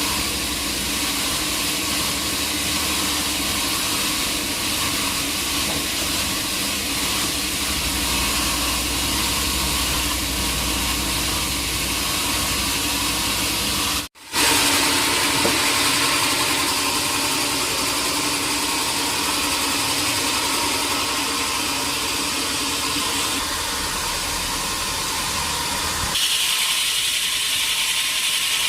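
Sawmill machinery running steadily with a loud hiss and a low engine-like hum. The sound drops out for an instant about halfway through and comes back hissier, and it shifts again near the end.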